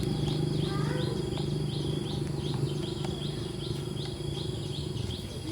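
A high chirp repeating regularly, about three times a second, from a bird or insect, over a steady low hum.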